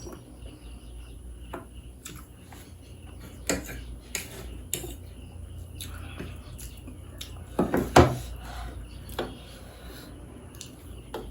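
Cutlery clinking and knocking against dishes during a meal, in scattered short taps, with a louder cluster of knocks about eight seconds in.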